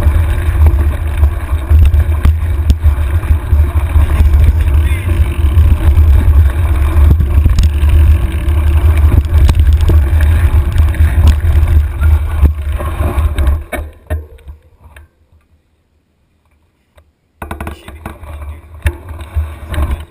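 Mountain bike ridden over rough trail, heard through a handlebar-mounted camera: a heavy, low wind buffeting on the microphone with constant rattling and clattering from the bike. Near the end the sound cuts out almost completely for about three seconds, then returns.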